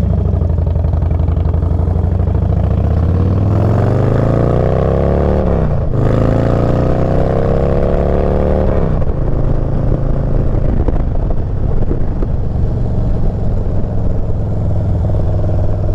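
Motorcycle engine accelerating through the gears: the revs climb for a few seconds, drop sharply at a shift about six seconds in, climb again, then settle into steady cruising.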